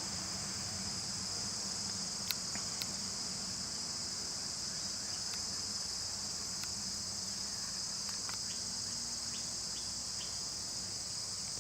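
Steady outdoor chorus of insects, a continuous high-pitched buzz that neither rises nor falls. Two faint clicks come a couple of seconds in.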